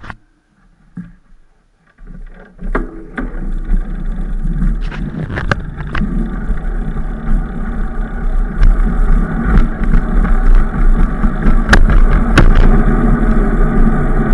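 Wind buffeting the microphone and riding noise on a bike ride, a steady low rumble that comes in about two seconds in and builds over the next few seconds, with scattered clicks and knocks.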